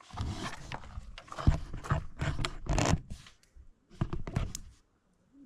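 Irregular scraping and rustling handling noises with sharp clicks, in a quick uneven run that stops twice for a moment near the end.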